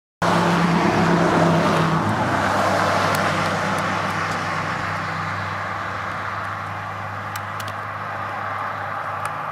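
A road vehicle going by, loudest at first and then fading away, with a steady low hum under a wide rushing noise.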